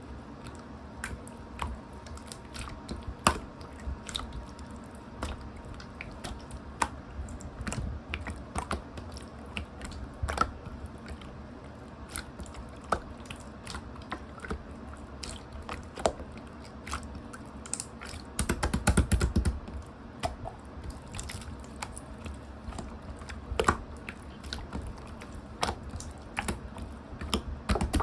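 Clear slime being squeezed and pressed by hand, making irregular sharp clicks and pops, with a quick dense run of pops about two-thirds of the way through and again at the end.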